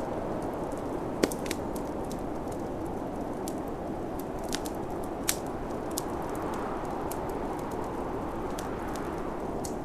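Wood fire crackling with irregular sharp pops, the loudest about a second in and about five seconds in, over the steady whoosh of snowstorm wind.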